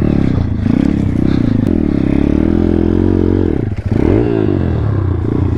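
Thumpstar 140cc single-cylinder four-stroke pit bike engine revving hard and unevenly, the revs rising and falling as the bike is stuck in deep mud. The revs drop briefly about two-thirds of the way through, then climb again.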